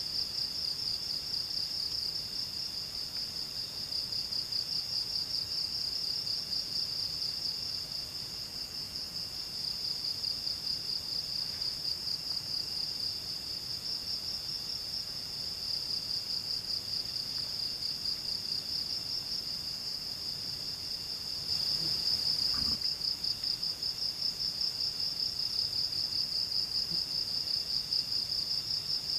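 Insects trilling in the forest: a steady, high, rapidly pulsing chorus, with a single soft thud about two-thirds of the way through.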